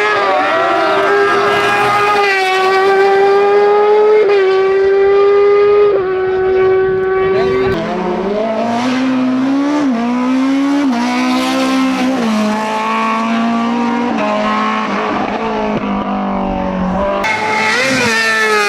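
Hillclimb race car engine running at high revs, its pitch holding high, then stepping and dipping several times as it is worked through the gears. Near the end it cuts abruptly to another engine sound.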